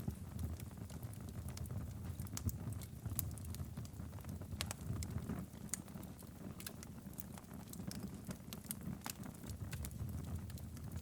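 Wood fire in a fireplace crackling and popping: irregular sharp pops scattered over a steady low rumble of the flames.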